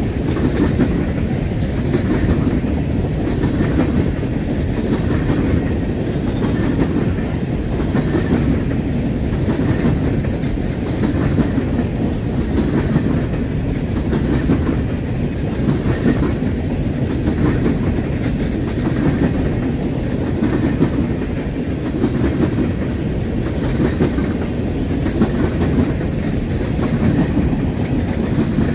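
Freight train of open-top hopper cars rolling past at close range: a steady rumble of steel wheels on rail, with a regular clickety-clack roughly once a second as the wheels cross rail joints.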